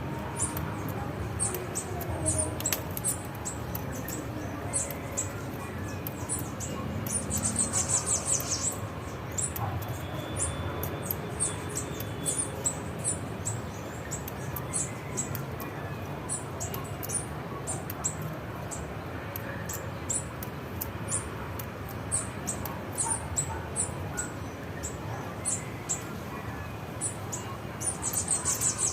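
Small songbirds giving short, high, thin chirps again and again, with two denser bursts of rapid chirping, one about eight seconds in and one near the end, over a low steady rumble.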